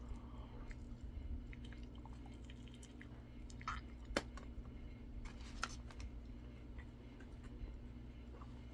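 A person chewing a mouthful of fried chicken sandwich, with small wet clicks and crunches and one sharp click about four seconds in. A steady low hum runs underneath.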